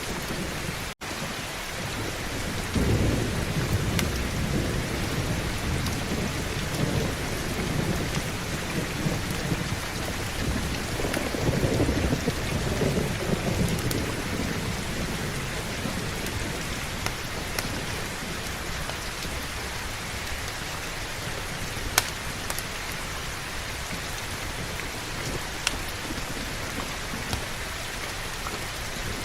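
Steady heavy rain with thunder rumbling in about three seconds in, swelling again a little before the middle and then dying away. The sound cuts out for an instant about a second in, and there are a couple of sharp clicks near the end.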